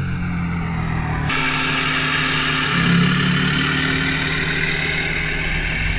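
Audi A7 3.0 TDI V6 diesel with a straight-pipe exhaust (no muffler) running steadily at idle. About a second in, the sound changes abruptly to a brighter, hissier tone and then holds steady.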